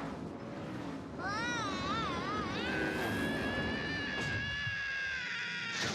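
Cartoon whistle sound effect: a high whistling tone that wavers up and down for about a second and a half, then holds one note that sinks slowly and stops near the end, over a rough rumbling noise at the start.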